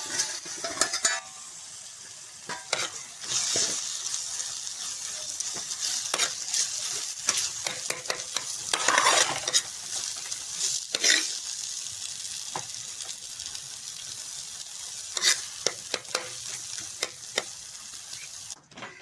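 Thick tomato masala sizzling in a metal pan while a metal spoon stirs it, scraping against the pan in frequent short strokes. The sound cuts off abruptly near the end.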